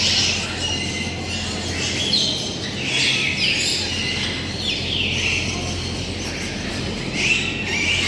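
Several birds chirping and calling over one another in a dense run of short, high calls, some sweeping downward in pitch, over a steady low hum.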